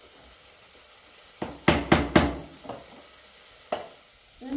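A utensil knocking and scraping against a cooking pot while food is stirred, with a cluster of four or five sharp knocks around the middle and one more near the end.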